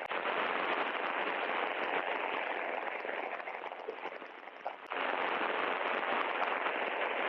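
Steady rushing cockpit noise of a Mooney M20J at climb power, the engine and airflow heard through an aviation headset intercom. It dips briefly about four seconds in and comes back with a click.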